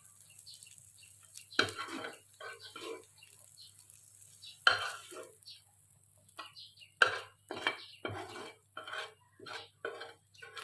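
Utensils knocking and scraping against pots and dishes in irregular sharp clinks and scrapes, some louder than others.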